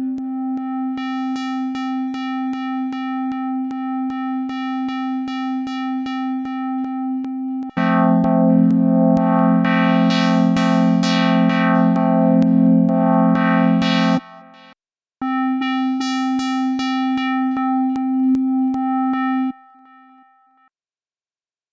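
Serum software synth patch built on a square wave, playing held notes chopped into a fast, even stepped rhythm. A louder, fuller chord comes in about eight seconds in, its brightness swelling and falling as the low-pass filter sweeps back and forth. It stops briefly, comes back as a single note, then fades out near the end.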